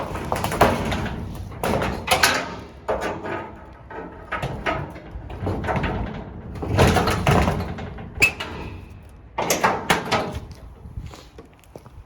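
Storage doors being pushed shut, with scraping and rattling and several sharp clunks just past the two-thirds mark.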